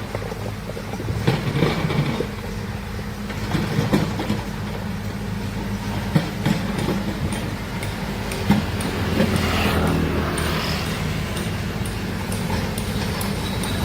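Large excavator's diesel engine running steadily, with irregular metallic clanks and knocks over it, several of them sharp and loud.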